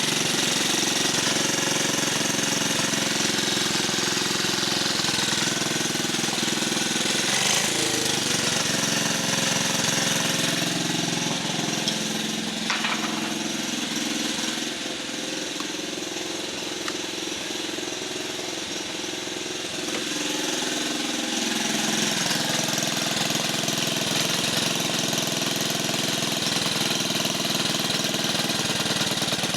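1950 R.E.O. engine running steadily on its own after being revived, with a rapid knocking beat; it runs a little quieter for several seconds in the middle, then picks back up.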